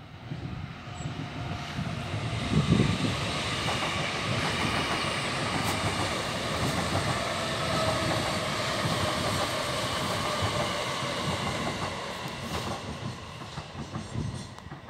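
Multi-carriage passenger train running past on the line, its wheels going over the rails with some clickety-clack and a faint steady whine. It gets louder from about two seconds in, holds steady, then dies away near the end.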